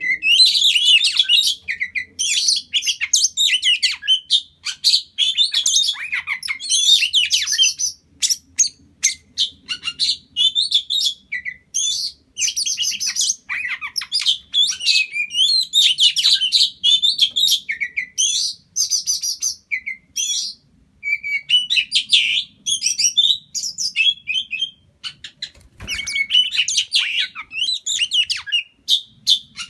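Oriental magpie-robin (kacer) calling and singing: rapid chirps and trills in quick runs with short breaks between. There is a single low knock near the end.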